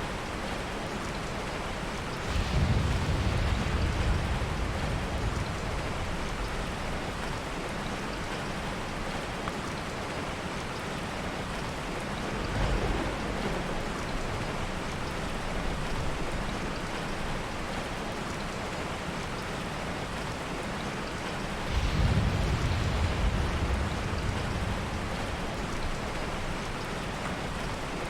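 Heavy rain falling steadily, with soft thunder: a low rumble swells and fades over a few seconds about two seconds in, a smaller one comes midway, and another low rumble comes near the end.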